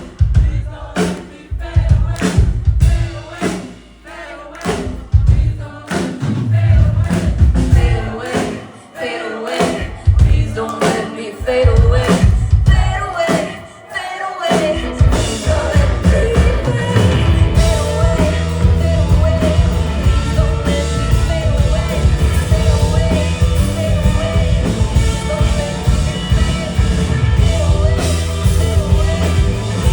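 Live rock band playing: for the first half, drum hits and band accents come in choppy bursts with short breaks between them. About halfway in, the full band comes in and plays on steadily with drums, bass and a wavering melody line on top.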